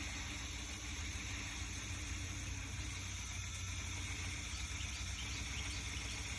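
A power sander running steadily as it grinds old paint off the underside of a car hood, a continuous hum with a hissing, abrasive edge.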